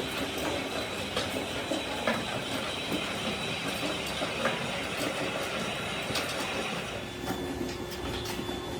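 Steady factory machinery noise with scattered clicks and clatter, and a thin high whine that shifts about seven seconds in.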